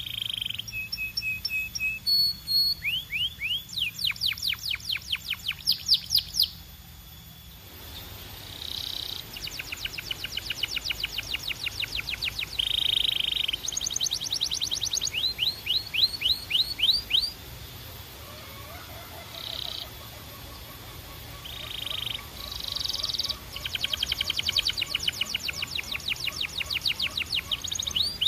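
Belgian canary singing: a continuous song of fast trills, each phrase a quick run of repeated high notes, switching between trills of different speed and pitch with short buzzy notes between, and a brief lull about seven seconds in.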